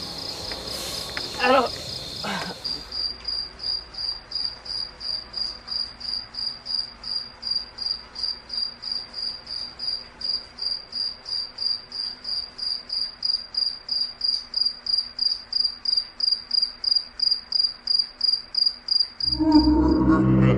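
An insect calling in a high, steady trill that breaks after about three seconds into even chirps, about three a second. Near the end a much louder low, humming sound cuts in.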